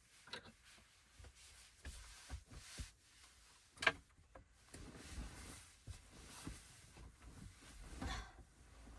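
Handling noises in a small enclosed space: scattered rustling and light knocks, with one sharp click about four seconds in.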